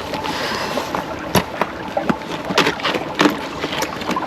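Mountain stream flowing steadily, with scattered sharp knocks and clicks over the rush of the water.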